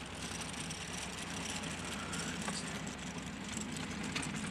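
00 gauge model tank locomotive's electric motor running and its wheels rolling on the rails as it shoves freight wagons, with a couple of sharp clicks from the track.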